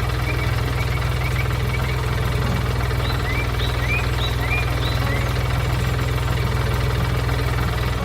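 Engine idling with a steady, evenly pulsing low rumble. About a dozen short high chirps sound over it during the first five seconds.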